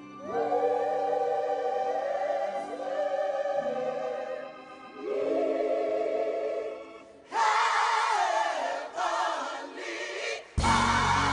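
Gospel choir singing long held chords in phrases of a few seconds, climbing higher and louder about two thirds of the way through. Near the end the sound suddenly fills out with deep bass as the accompaniment comes in fully.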